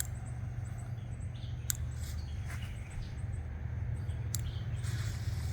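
Steady low outdoor rumble with faint high bird chirps, and two short sharp clicks, about a second and a half apart from the middle.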